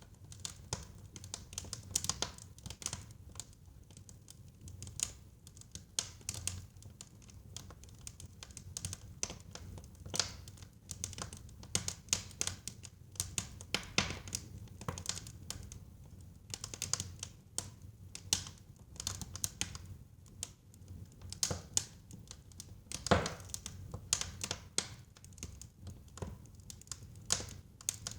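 Burning wood crackling and popping in a fireplace: irregular sharp snaps, several a second, over a low steady rumble of the fire, with one louder pop about 23 seconds in.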